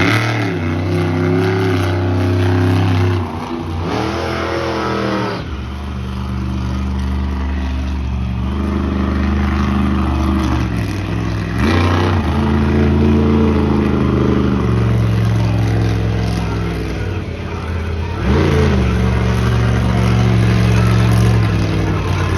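Monster truck's engine revving hard: the pitch climbs four times, near the start and about 4, 11 and 18 seconds in, and holds steady at high revs between, with short drops off the throttle.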